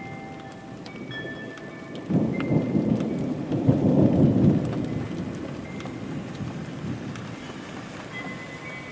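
Steady rain with a thunderclap about two seconds in: a low rumble that swells to its loudest around four seconds and fades away over the next few seconds.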